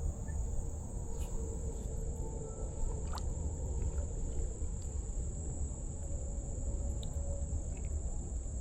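A steady, high-pitched insect chorus of crickets, over a low rumble and a few faint clicks.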